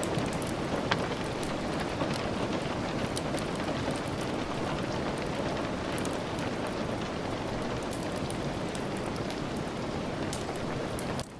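Steady rain falling, an even hiss with scattered sharp ticks of drops or fire crackles.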